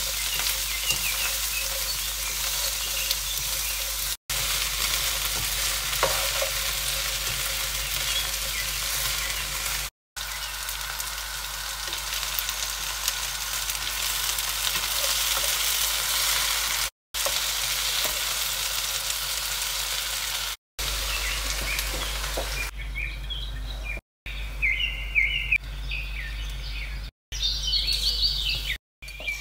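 Sliced okra and onions sizzling in hot oil in a non-stick wok, stirred and scraped with a spatula, broken by a few short silent gaps. Near the end the sizzle is quieter, with scattered small crackles as spices go into plain hot oil.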